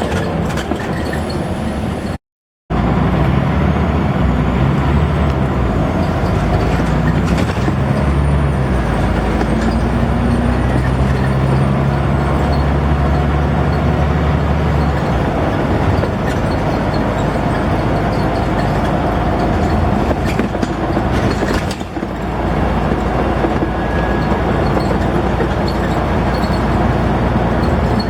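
Scania N94UD double-decker bus's diesel engine working hard under way, heard from aboard the bus, its note stepping up and down in pitch as it runs through the gears. The sound cuts out completely for about half a second just after two seconds in.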